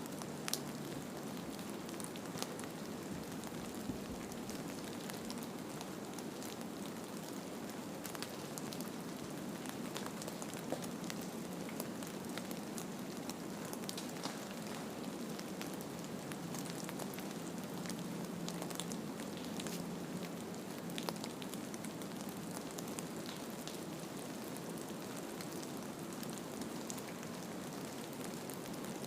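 A steady soft hiss with many small crackles and ticks scattered throughout, a wintry relaxation ambience with no music or bells heard.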